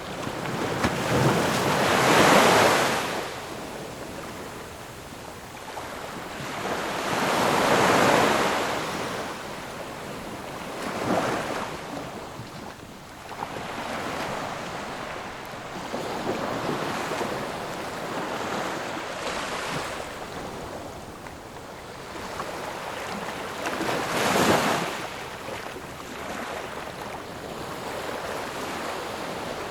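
Ocean waves breaking and washing in on a shore. The surf swells and fades in surges several seconds apart, with the biggest breaks about two seconds in, around eight seconds, and again past twenty-four seconds.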